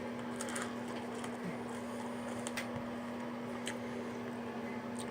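Faint chewing of a candy bar: a few short mouth clicks over a steady low hum.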